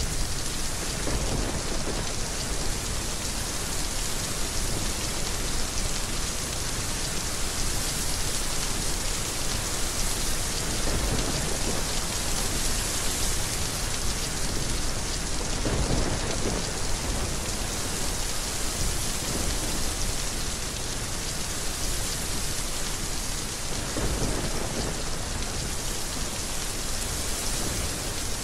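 Heavy rain falling steadily, with soft low thunder rolls rumbling under it several times, one near the start and more through the middle and toward the end.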